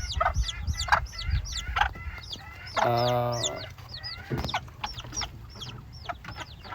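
Old English Game chicks peeping: a run of short, high-pitched chirps, several a second. About three seconds in, an adult chicken gives one longer, lower call.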